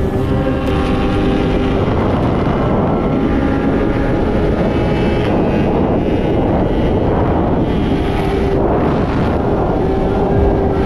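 Vehicle engines running at high speed under heavy wind rush on the microphone; the engine note holds mostly steady, drifting up and down slightly a few times.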